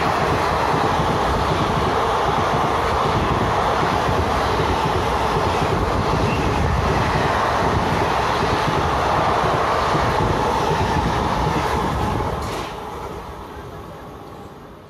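Indian Railways express passenger coaches running through a station at high speed: a steady loud rush and rumble of wheels on the rails. About twelve seconds in, the last coach passes and the sound quickly falls away.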